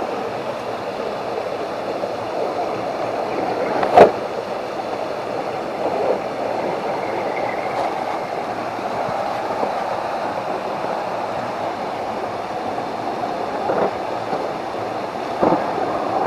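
A 1/10-scale Axial SCX10 II RC crawler's electric motor and gear drivetrain running steadily as it crawls. There is one sharp knock about four seconds in and a few lighter knocks later.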